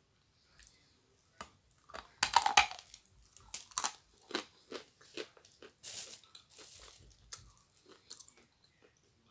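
A lump of edible chalk bitten and crunched between the teeth, close to the microphone: a loud first bite about two seconds in, then a run of sharp crunches as it is chewed.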